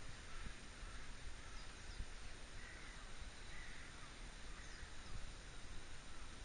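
Faint outdoor ambience: a steady background hiss with a few faint, distant bird calls around the middle.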